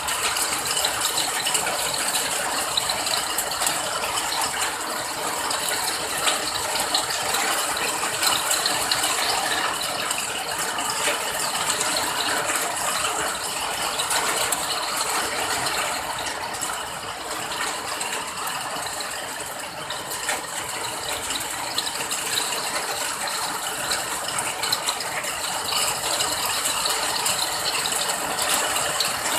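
Steady rain: a dense, even patter of countless drops, easing slightly about two-thirds of the way through.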